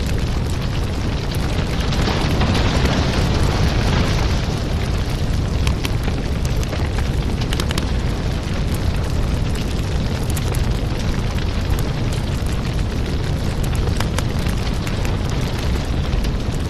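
Fire burning in a fireplace: a steady low rumble with scattered crackles and small pops.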